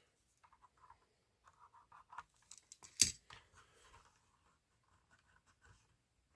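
Faint scratching and small clicks of a box cutter blade and fingers working a tiny sticker onto a plastic toy truck, with one sharper tap about three seconds in.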